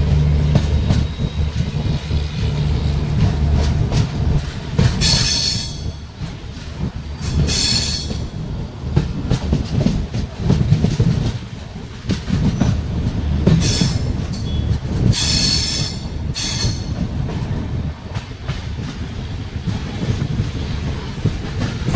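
Moving passenger train heard from inside the coach: a steady low rumble and rattle of the wheels on the track, broken by several brief high-pitched wheel squeals between about five and seventeen seconds in.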